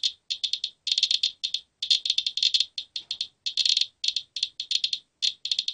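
Geiger counter clicking fast and irregularly in dense clusters, held close to a used furnace filter: an elevated radiation count from the dust the filter has collected.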